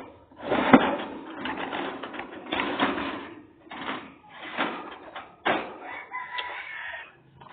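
Pet lovebirds calling in a string of harsh, shrill bursts about once a second, with a brief whistled note near the end.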